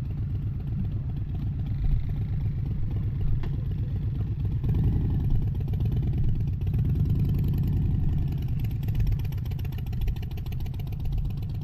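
Harley-Davidson V-twin motorcycle engine running with a rapid, low exhaust beat, getting louder about four and a half seconds in.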